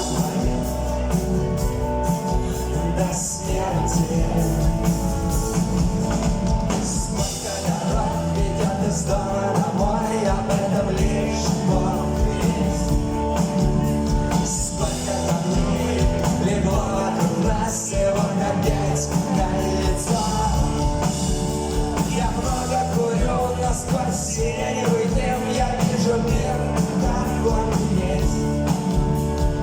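Rock band playing live, loud and steady, with a drum kit keeping a regular beat under sustained instrument lines.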